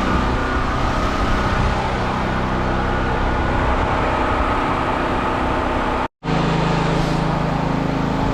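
Firman T07573 tri-fuel portable generator's engine running steadily at a fairly high speed with no load, which the owner takes for an idle set too high. The sound cuts out for a moment about six seconds in, then the engine continues with a slightly different tone.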